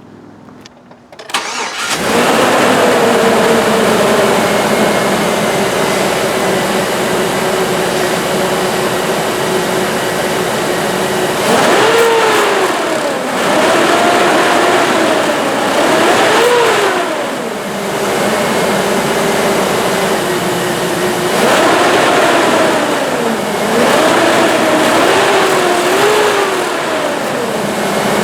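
The swapped-in engine of a 2004 Cadillac Escalade starting up about a second and a half in and running loud and steady, with the exhaust system newly fitted. In the second half it is revved and let fall back several times, its pitch rising and dropping with each blip.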